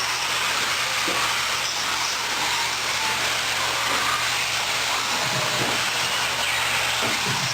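Several 1/10-scale electric 4WD short course RC trucks racing on an indoor dirt track: their motors, drivetrains and tyres blend into a steady hiss.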